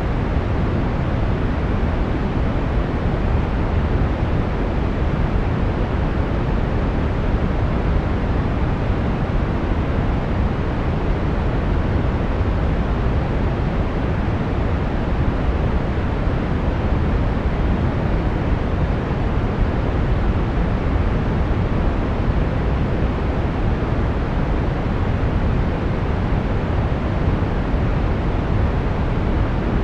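Brown noise: a steady, even hiss heaviest in the lows, with the highs rolled off.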